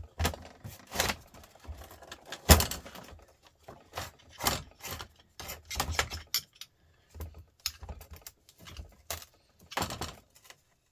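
Metal parts of a truck starter motor clinking, knocking and rattling as it is pried apart by hand with tools, in irregular sharp taps. The loudest knock comes about two and a half seconds in.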